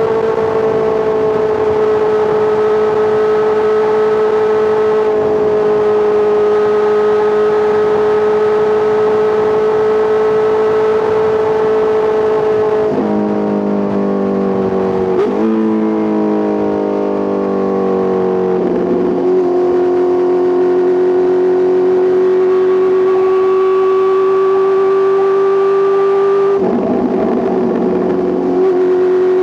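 Honda CBR650R inline-four engine through an Arrow Pro Race titanium full exhaust, running at a steady speed. About halfway through, its pitch drops in steps over a few seconds as the bike slows. It then holds steady and climbs gently, with a brief rougher patch near the end.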